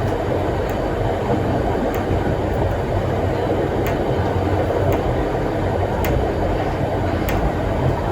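Vintage steam train rolling along the track: a steady rumble of the carriage running on the rails, with about half a dozen sharp clicks at uneven intervals.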